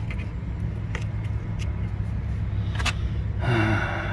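Idling car engine giving a steady low hum, with scattered light clicks and knocks over it and a short scraping rustle near the end.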